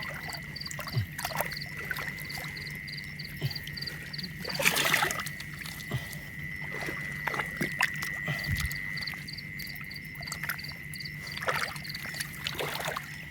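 Night-time-style chorus of frogs and insects by a water canal: a steady high drone with a quick pulsing call over it. Short splashes and sloshes of water break in now and then, the largest about five seconds in.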